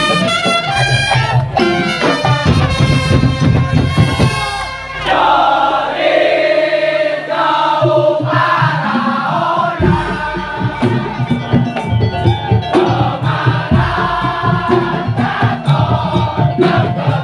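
Madurese daul (tongtong) band playing: dense drumming under a pitched melody. About five seconds in, the drums mostly drop out for a few seconds, leaving the melody on its own, then the full percussion comes back in.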